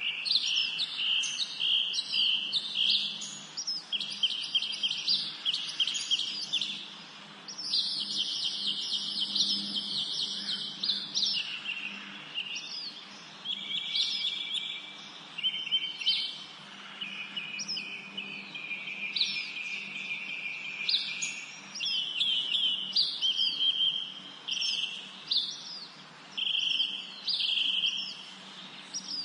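Several songbirds singing at once in a spring forest: a dense chorus of overlapping chirps, rapid trills and repeated short whistled notes.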